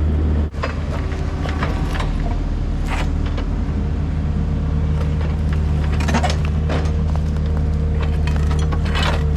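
Diesel engine of a heavy demolition machine running steadily under load, with scattered knocks and scrapes as concrete footers are broken out.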